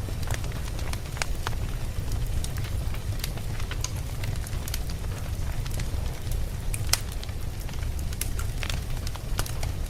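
Wood fire burning, with a steady low rumble and irregular sharp crackles and pops, the loudest pop about seven seconds in.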